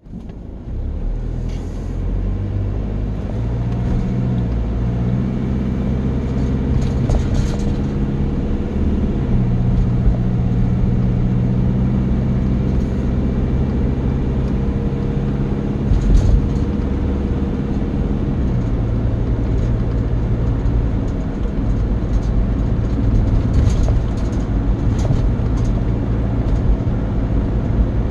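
A vehicle engine running steadily, its note shifting up and down a few times, with occasional light clicks.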